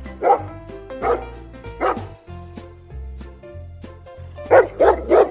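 Dog barking in single barks about a second apart, then a quick run of three barks near the end, over light background music.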